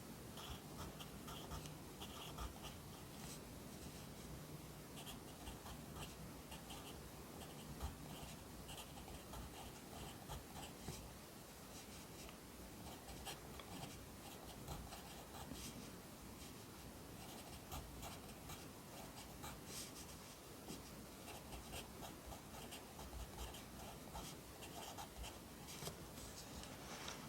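Pencil writing Korean characters by hand on paper: a steady run of short, faint scratching strokes with brief pauses between them.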